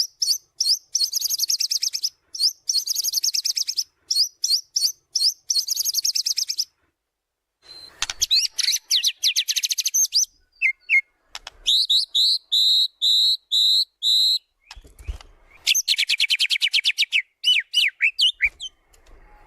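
White-rumped shama (murai batu) singing a loud, varied song made of fast trills and runs of repeated whistled notes, packed with mimicked phrases. The song breaks off briefly about seven seconds in, then resumes with a string of rising repeated notes and more trills.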